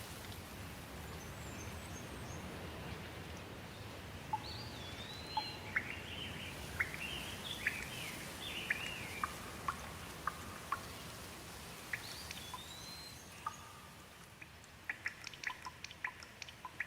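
Steady rain with birds singing over it in short whistled phrases. Near the end the rain fades and quick, irregular water drips take over.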